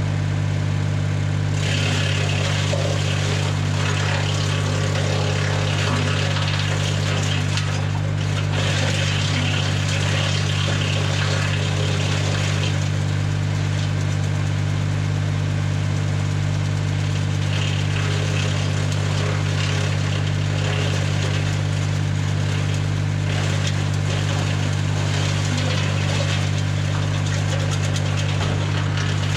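Tractor engine running at a steady speed, driving a BX-52 PTO wood chipper through the power take-off. Stretches of louder hissing, rattling noise come and go over the drone several times.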